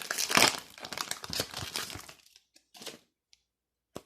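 Foil wrapper of a Pokémon booster pack crinkling as it is handled and the cards are pulled out, a dense crackle for about two seconds that then dies away to a few faint ticks and a sharp click near the end.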